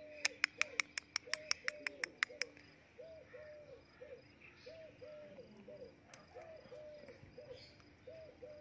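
A bird cooing: a low three-note coo, two drawn-out notes and a short one, repeated steadily about every second and a half. Over the first couple of seconds there is a quick run of sharp clicks, about four a second.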